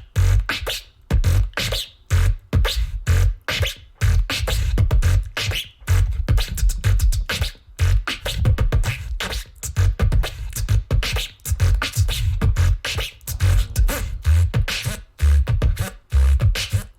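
Beatboxing: a fast, dense beat of deep kick-drum bass hits with sharp snare and hi-hat clicks, several sounds layered at once by one beatboxer's mouth and voice.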